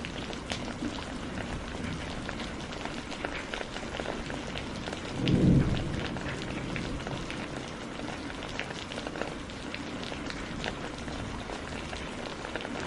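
Wood campfire crackling, with a steady stream of sharp pops and snaps. About five seconds in, a brief low rumble rises above the crackle for about half a second.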